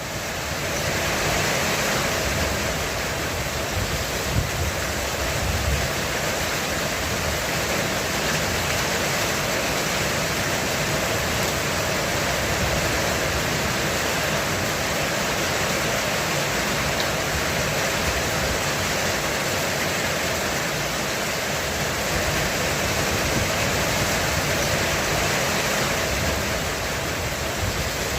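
Heavy rain pouring steadily on a roof in a dense, even hiss, fading in over the first second or two.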